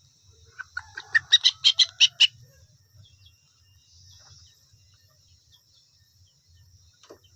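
A bird chirping a quick run of about eight sharp, high notes lasting just over a second, over a steady high drone of insects.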